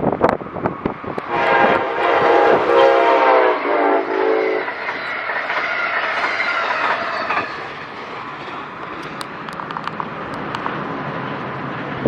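Amtrak Keystone Service passenger train sounding its multi-note horn chord for about three seconds, with a couple of short breaks, as it approaches. It then rushes past at speed, its wheels clicking over the rail joints.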